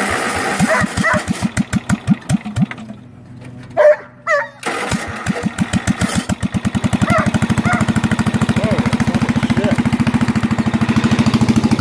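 Bolens lawn tractor's single-cylinder engine, muffler removed, cranked and firing unevenly before dying out about three seconds in. It is cranked again and catches, running unmuffled with a steady fast beat. A dog barks several times over it.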